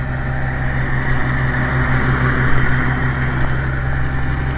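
1968 Minneapolis-Moline G900 LP tractor engine idling steadily on propane while warming up after a cold start, with a little exhaust manifold leak at the number 1 cylinder.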